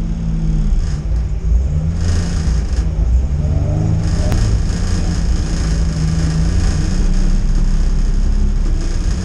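BMW E30 325i's straight-six engine heard from inside the cabin, running at low revs while the car creeps forward, with a brief rise in revs about three to four seconds in.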